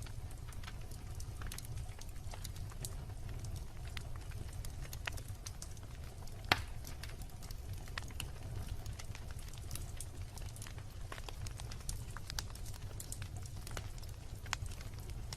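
Wood bonfire crackling: irregular sharp pops over a low, steady rumble, with one louder pop about six and a half seconds in.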